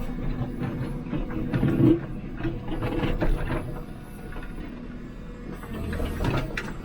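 JCB 3CX backhoe loader's diesel engine running, heard from inside the cab, with clanks and scraping of the loader bucket against crushed stone, strongest in the first few seconds and easing off later.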